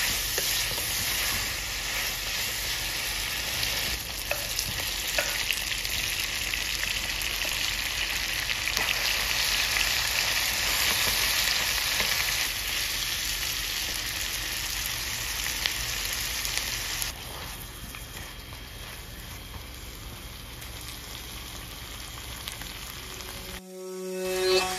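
Lamb pieces and chopped vegetables sizzling in hot oil in a stainless steel pan, stirred with a wooden spatula that gives occasional faint scrapes and taps. The sizzle drops noticeably quieter about two-thirds of the way through. Plucked-string music comes in right at the end.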